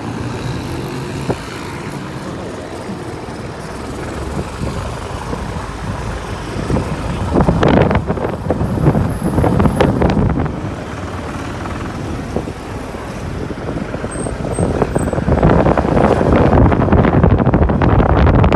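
Motorcycle riding through road traffic, heard from the bike: a continuous engine and traffic noise that swells louder about eight seconds in and again near the end.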